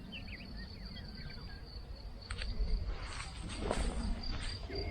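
Outdoor spring ambience: a steady high insect trill, with a few faint bird chirps in the first second or so. From about halfway in come several short soft crunches, footsteps on the vegetation.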